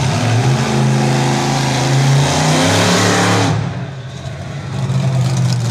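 Monster truck engine revving hard, its pitch climbing for about three and a half seconds, then backing off sharply and running on at a lower pitch.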